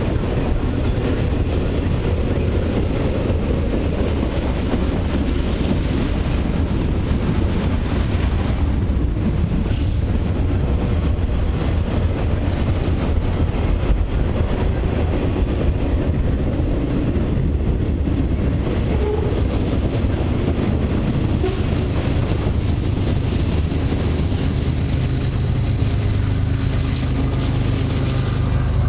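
Freight train cars rolling past below, a steady rumble of wheels on rail. In the last few seconds the low drone of a diesel locomotive, the train's mid-train distributed-power unit, comes in as it nears and passes under.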